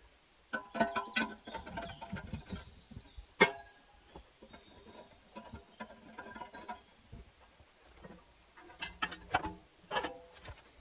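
Irregular knocks and clatter from hand work, with one sharp knock about a third of the way in and a quick run of knocks near the end.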